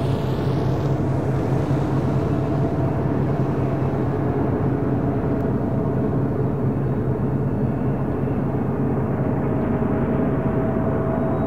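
Union Pacific manifest freight train in motion at Tehachapi Loop, giving a steady low drone, with a thin steady tone coming in near the end.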